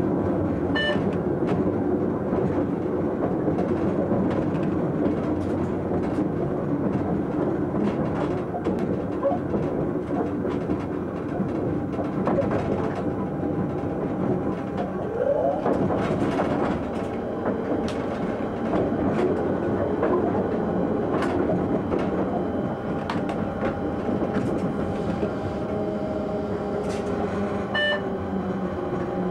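Train running, heard from inside the driver's cab: a steady rumble of the running gear with frequent sharp clicks as the wheels cross switches and rail joints on the station approach. A short rising whine sounds about halfway through, and a tone sinks in pitch near the end.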